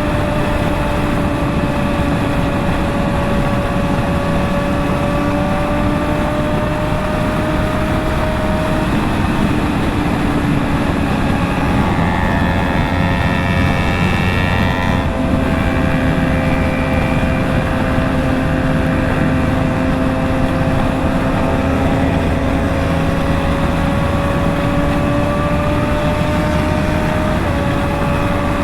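Motorcycle engine running at a steady cruise under a heavy rush of wind and road noise. Its note shifts pitch about nine and fifteen seconds in, and a higher engine note sounds alongside for a few seconds around the middle.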